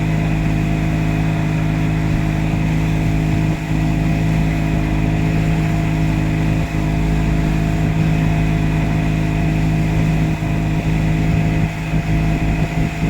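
Boat engine running steadily at constant speed, a loud even drone with a low rumble of wind and water underneath.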